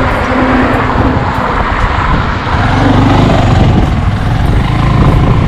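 Motorcycle engine running while riding, mixed with a steady rushing noise; the low engine note grows stronger about three seconds in.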